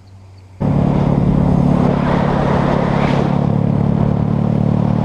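A vehicle engine idling, a loud, steady low rumble that cuts in abruptly about half a second in.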